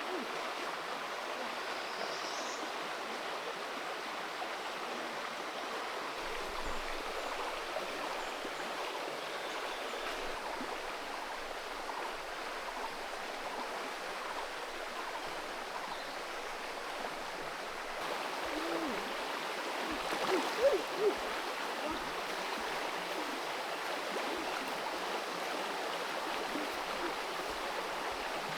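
Creek water flowing steadily over stones, with a few brief louder sounds about two-thirds of the way through.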